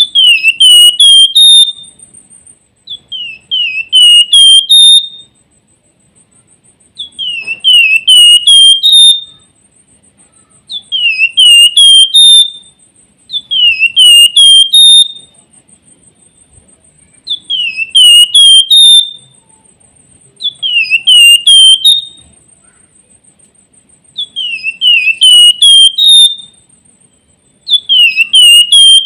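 Javan fulvetta (flamboyan, Wergan Jawa) singing its whistled 'nyiul' song. The song is a phrase of four or five quick, sliding high notes, repeated about every four seconds. It is loud and clipped, with a faint steady high buzz behind it.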